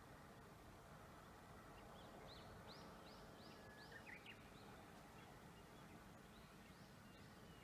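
Faint bird chirps, a quick run of short repeated notes a couple of seconds in and a few more near the end, over a steady low outdoor background hush.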